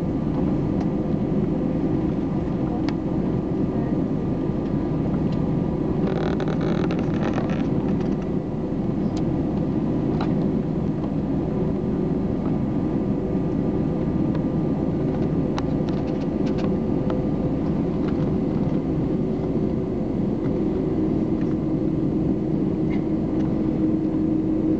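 Steady engine drone and low rumble inside an airliner cabin, with a few steady hum tones and no rise in level, as the plane sits or taxis before take-off. A brief hiss about six seconds in.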